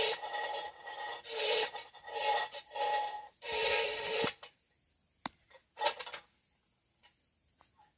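Tin-can noisemaker rattled in repeated rasping, metallic strokes with a ringing tone, the kind of can noise used to scare monkeys off crops. The strokes stop about four and a half seconds in, followed by a single sharp click and one short scrape.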